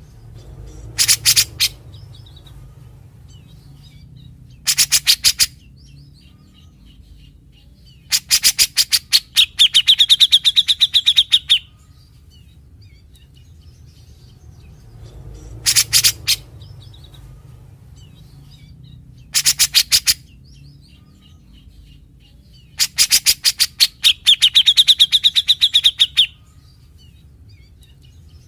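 Grey-cheeked bulbul (cucak jenggot) singing in bursts of rapid, harsh rattling notes, the longest burst ending in a fast buzzing trill. The same run of three bursts comes twice, over a low steady background hum.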